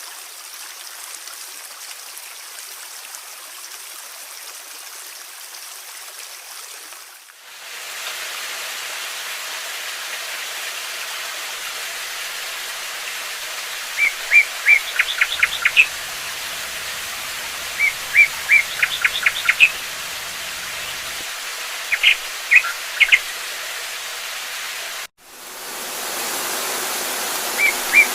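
Steady rush of running water, changing to a louder water sound about seven seconds in. Over it a small songbird calls in short runs of quick high chirps, four times in the second half.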